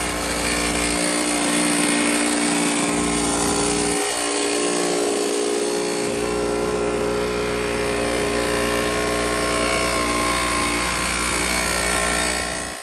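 X3 pocket bike's small two-stroke engine running steadily with a buzzing note, dipping briefly about four seconds in, then cutting off suddenly at the end.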